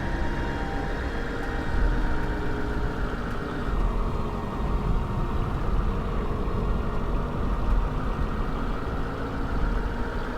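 Steady vehicle noise: a low rumble with a hiss above it and faint steady tones, with no breaks.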